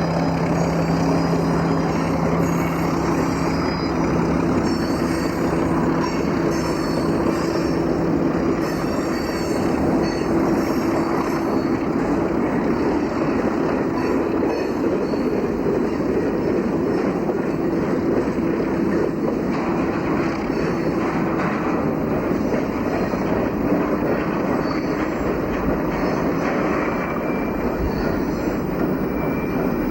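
Baldwin diesel locomotive hauling a freight train past: a steady engine drone over the rumble of wheels on the rails, with faint wheel squeal in the first ten seconds or so.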